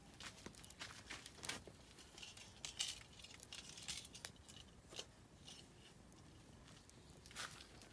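Oak firewood burning in a camping fire pit, crackling with irregular faint pops and snaps.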